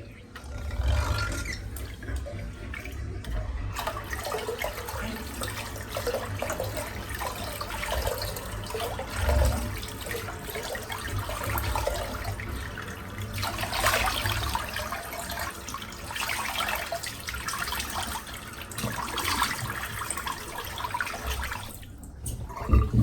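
Water running from a tap into a sink with uneven splashing, as in rinsing off after a shave. A sharp knock near the end.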